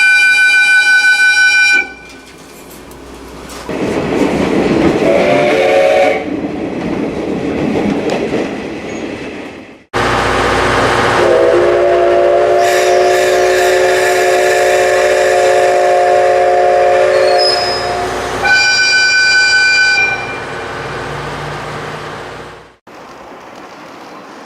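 Steam locomotive whistle blasts. A short high blast comes at the start, then train running noise, then a long lower-pitched blast that holds steady for about seven seconds, then another short high blast near the end.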